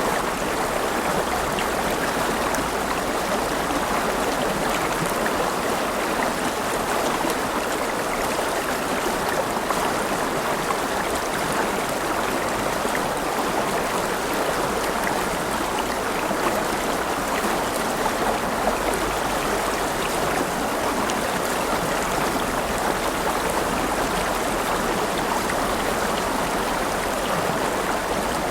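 River water flowing steadily over stones, a dense, even rush with fine splashing and gurgling.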